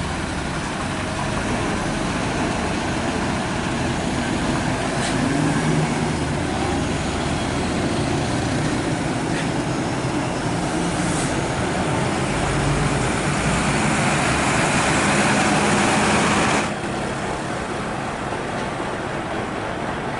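Scania R580 truck's V8 diesel running on the road, with steady tyre and road noise that swells a little. A loud hiss over it stops suddenly near the end.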